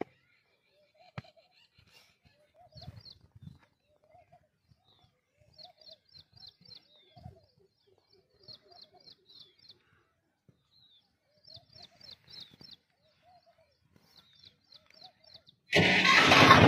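Birds calling: quick runs of high chirps and a repeated mid-pitched call that rises and falls, with a few faint low thumps. About a second before the end, a loud, steady rushing noise cuts in suddenly.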